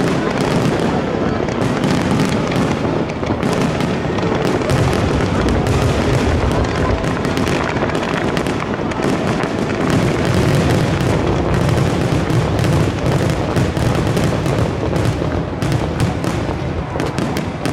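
Aerial fireworks display: a dense, continuous barrage of shell bursts and crackles, several a second over a deep rumble of booms.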